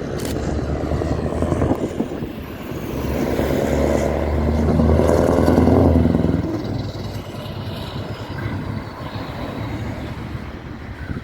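Scania V8 diesel truck engine running through open exhaust pipes, growing louder to a peak about six seconds in, then fading.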